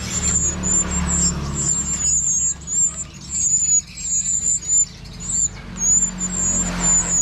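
Many caged songbirds chirping in quick, high, squeaky notes, with a low engine hum underneath at the start and again near the end.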